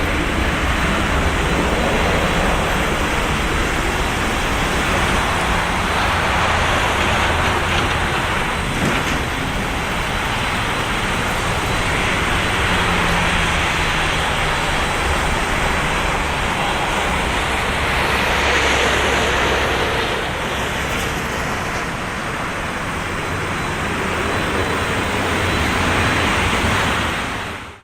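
Steady rushing noise of a Boeing 737-200's Pratt & Whitney JT8D jet engines, swelling a little about two-thirds of the way through and again before cutting off suddenly at the end.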